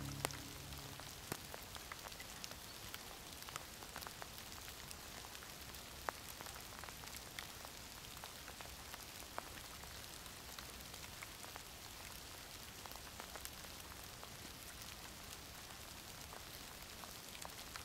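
Steady light rain, an even hiss with many single drops ticking close to the microphone. Background music fades out in the first second or so.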